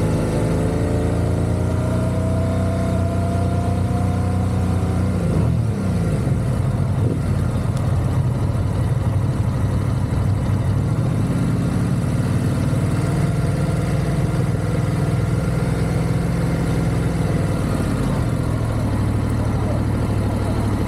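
Motorcycle engine under way: its pitch climbs for the first few seconds, drops sharply about five seconds in, then runs lower and steadier, rising gently again midway and falling back near the end.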